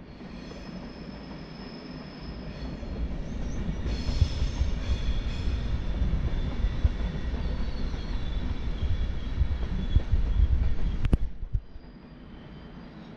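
SBB double-deck push-pull train rolling past: a low rumble of wheels on rail that builds over the first few seconds and holds, with steady high thin squealing over it. A sharp click comes about eleven seconds in, after which it is quieter.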